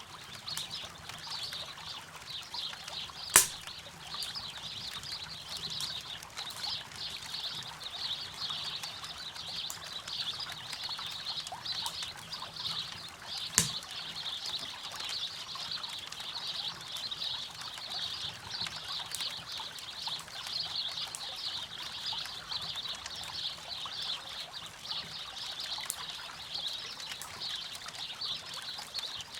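River water running and trickling steadily, with a campfire crackling: occasional sharp pops, the loudest about three seconds and about thirteen seconds in.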